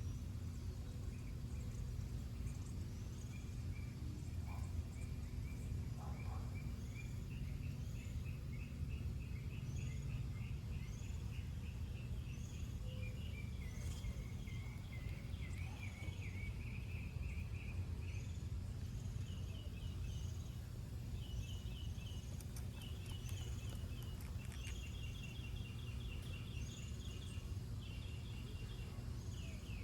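Small birds chirping, with runs of quick trilled notes and short high calls repeated over and over, over a steady low rumble.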